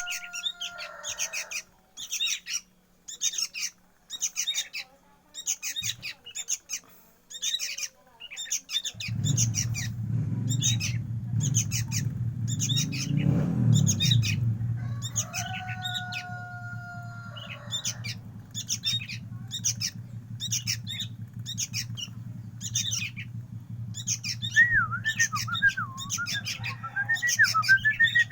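A young bird chirping over and over, short high chirps about twice a second. About a third of the way in a low steady hum joins underneath, and near the end a warbling whistle comes in.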